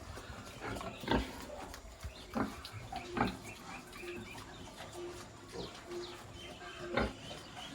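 Pigs grunting, a few short loud grunts spread over several seconds.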